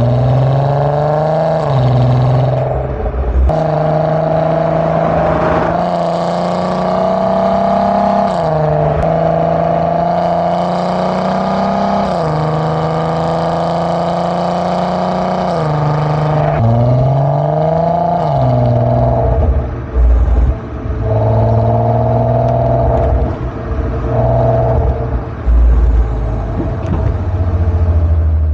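MK5 Golf R32's 3.2-litre VR6 on its stock exhaust, accelerating through the gears while driving. Engine pitch climbs and then drops at each upshift, several times over.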